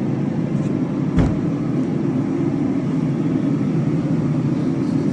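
Steady low rumble of background noise, with a single sharp click about a second in.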